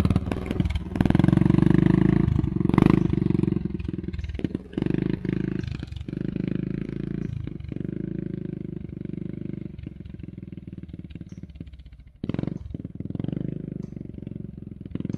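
Single-cylinder four-stroke ATV engine running, loudest in the first few seconds and then quieter, dropping away briefly about twelve seconds in before coming back.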